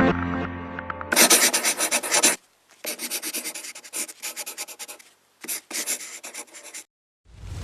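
Rapid back-and-forth rubbing or scratching strokes in three runs with short pauses between them, as of a brush or abrasive worked over a surface. A swelling rush of noise starts just before the end.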